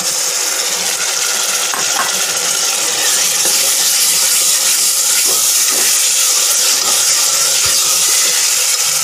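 Onion-tomato masala sizzling steadily in hot mustard oil in an aluminium pressure cooker, freshly added tomato purée frying, while a steel ladle stirs it with a few clinks against the pot.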